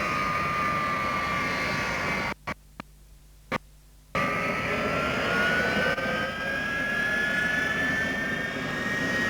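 Avro Vulcan B2's Bristol Siddeley Olympus jet engines running, with a steady whine over the roar. The sound drops out for about two seconds in the middle, with a few clicks. When it returns, the whine climbs steadily in pitch as the engines spool up.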